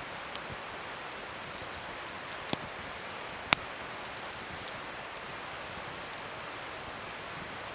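Wood fire burning with a steady crackling hiss and a few sharp pops, the loudest about three and a half seconds in.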